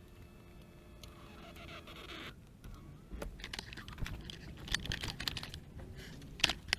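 Passenger seat of a Jeep Grand Cherokee being pushed forward, with a run of clicks and knocks from the seat and the trim around it, the sharpest knocks near the end.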